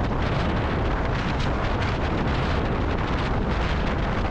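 Steady rush of wind buffeting the microphone over the Kawasaki W800 Cafe's air-cooled parallel-twin engine running at expressway cruising speed.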